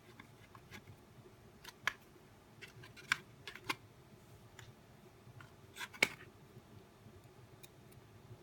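Scattered small clicks and taps as the parts of a nail dust collector are handled by hand, with sharper knocks about two, three and six seconds in, the last the loudest.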